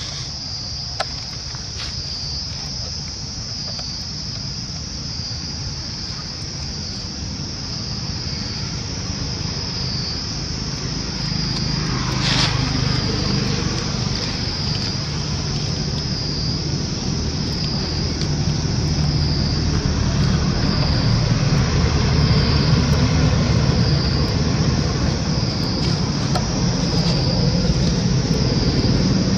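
Insects droning steadily at a high pitch with a slow regular waver, over the low rumble of a motor vehicle engine that grows louder through the second half.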